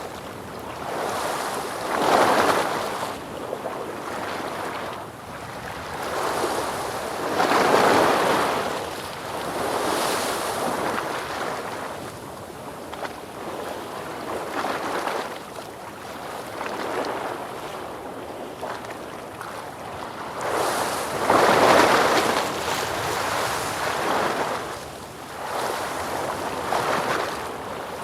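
Ocean waves breaking and washing ashore in a steady series of swells, each rising and falling over a few seconds, the biggest about 2, 8 and 22 seconds in.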